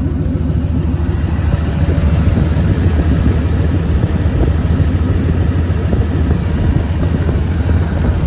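Ford 460 big-block V8 gasoline engine of a 1997 F350 dump truck running steadily at idle after being started, with oil pressure up; it sounds better than before.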